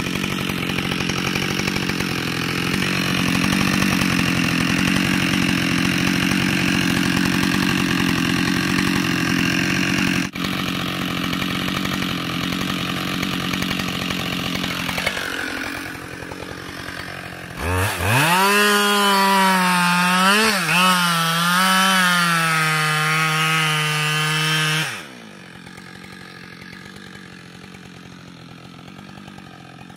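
Husqvarna 572 XP two-stroke chainsaw running at high revs and cutting through wood, with a steady engine note. About 18 s in it sounds clean and high at full throttle, wavering in pitch for several seconds. It then cuts off to a much quieter level.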